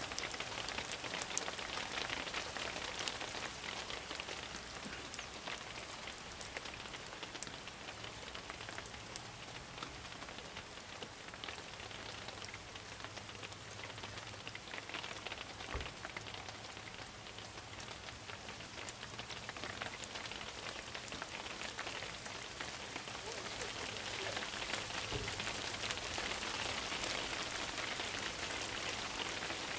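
Steady rain falling, a dense patter of small drops that grows louder over the last few seconds.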